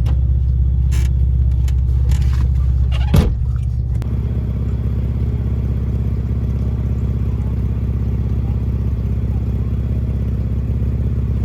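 Steady low rumble of a car running, as heard from inside the cabin, with a few clicks and knocks in the first few seconds and a louder knock about three seconds in.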